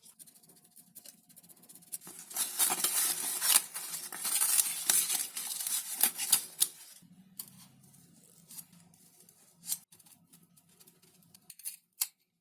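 Thin XPS foam sheet being cut and handled: a stretch of scratchy, crackly rustling from about two seconds in to nearly seven seconds, then scattered light clicks and taps.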